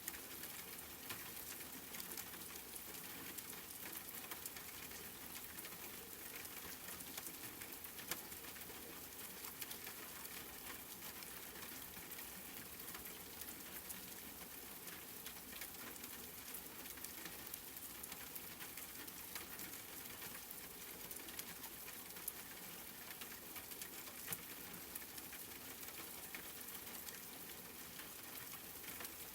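Steady rain with many separate droplets pattering on a surface, an even hiss with fine drop ticks and no change.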